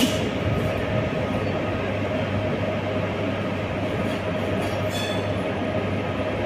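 Train running on the track: a steady rumble with a constant hum. Brief high-pitched wheel or brake squeaks come at the start and again about five seconds in.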